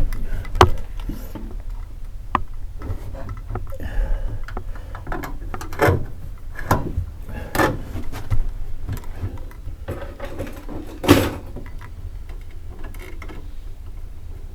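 Irregular knocks, clicks and scraping from hands working inside a plywood boat hull, feeding mousing lines through plastic ABS chase tubes. The loudest knock comes about eleven seconds in, over a steady low rumble.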